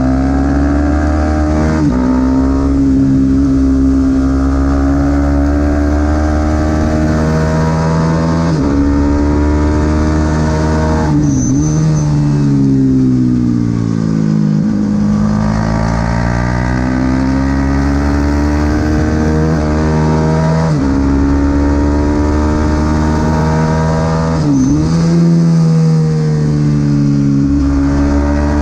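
Supersport 300 racing motorcycle engine heard onboard at racing speed, its note climbing through the revs and dropping back at each gear change every few seconds, with a longer fall in pitch near the middle as it slows for a corner. Wind noise runs under the engine.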